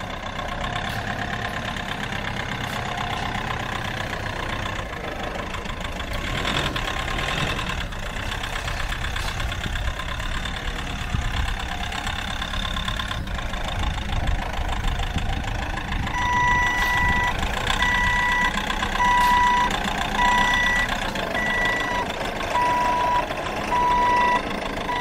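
Diesel forklift engine running steadily; about two-thirds of the way through its reversing alarm starts, beeping about once a second, the sign that the truck is backing up.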